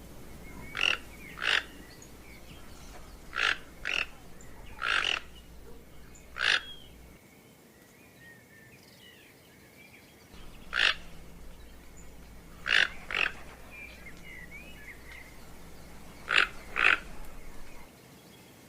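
Toucan giving about eleven short calls, many in close pairs, with a pause of about four seconds midway. Faint bird chirps run behind them.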